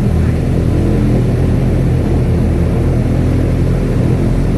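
Airboat's engine and air propeller running steadily, a loud low drone heard from on board.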